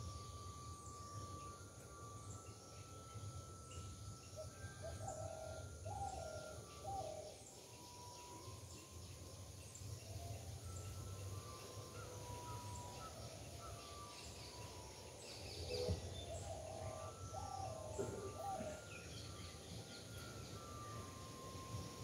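Several birds calling: short high chirps repeated about once a second, a few longer whistled notes, and bursts of lower calls about five seconds in and again around sixteen seconds. A steady low hum of background noise lies under them.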